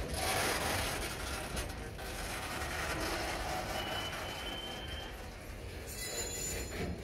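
Loaded stone hopper cars rolling slowly over the rails as they are shoved, a steady rumble of wheels on track. A brief thin wheel squeal comes in about four seconds in.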